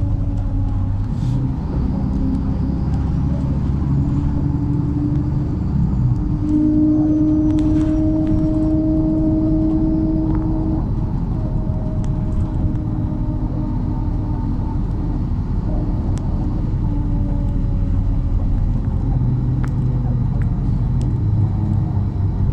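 MAZ-103 city bus running on the road, heard from inside the passenger cabin: a steady low engine and drivetrain rumble with a whine that strengthens for several seconds partway through and then fades.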